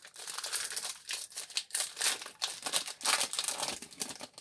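Foil wrapper of a Yu-Gi-Oh booster pack crinkling and crackling as it is handled and opened, with many irregular sharp crackles.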